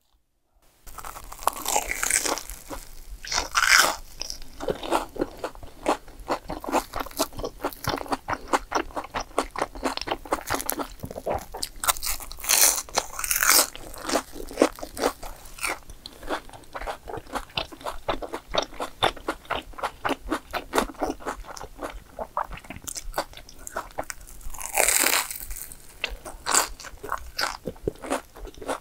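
Biting and chewing of a deep-fried breaded mozzarella cheese ball: loud crunches of the crumb crust about two, four, thirteen and twenty-five seconds in, with rapid chewing clicks between. It begins after about a second of near silence.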